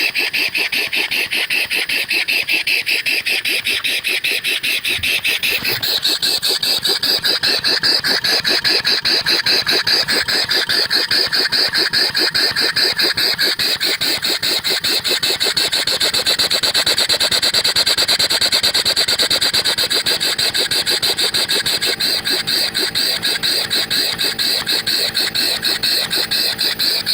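Six-horsepower Briggs & Stratton single-cylinder engine converted to run on compressed air, running with rapid, even puffs of air hissing out of the exhaust. The pulses grow stronger about six seconds in.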